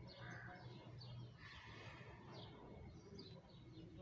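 Faint birdsong: short, falling chirps repeated every half second or so, over a low steady hum.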